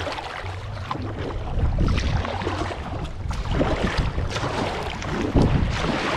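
Wind rumbling on the microphone, with water splashing and lapping around a paddled kayak.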